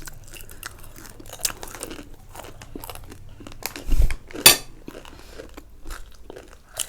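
Crunchy snack chips being bitten and chewed close to the microphone: a run of small sharp crunches. About four seconds in there is a dull bump, followed by one loud sharp crackle.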